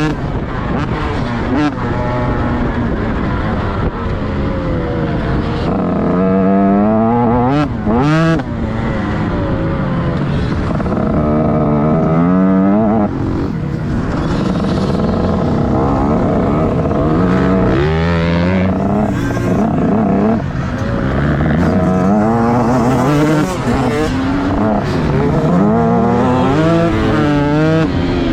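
Motocross bike engine accelerating hard and backing off over and over, its pitch climbing in repeated rising sweeps and dropping at each shift or throttle-off. Heard close up from a camera mounted on the bike.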